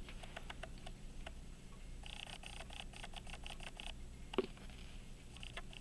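Faint, rapid, even ticking of a pocket watch movement, about five ticks a second, with one small knock about four seconds in. The ticks are a sign that the balance is swinging under the light mainspring tension just put on the movement.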